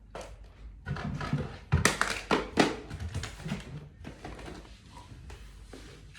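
Several sharp knocks and clatters of objects being handled, the loudest about two seconds in, followed by a quieter steady hiss.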